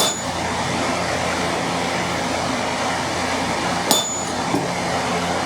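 Two ringing metal-on-metal hammer blows, one at the start and another about four seconds in, typical of a hammer striking a walking chisel on the anvil. A steady hum runs underneath.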